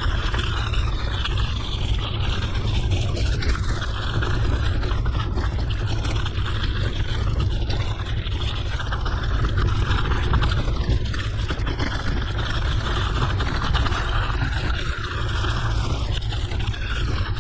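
Mountain bike rolling along a gravel forest road: steady tyre noise on the gravel, with wind rumbling on the microphone.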